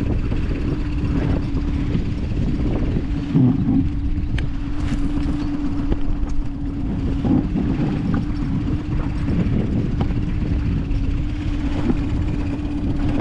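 Boat motor on an inflatable boat running at a steady, unchanging pitch over a low rumble, with a few brief knocks.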